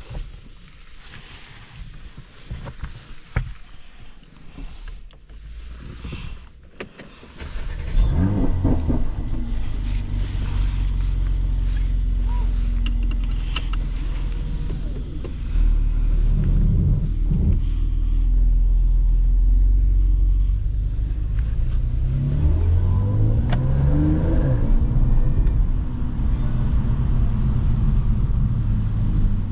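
Mercedes-AMG C43 engine and exhaust. After several seconds of quieter interior clicks, the engine comes in suddenly and loudly with a quick rise in revs, then runs steadily. The revs climb again in a series of rising notes near the end.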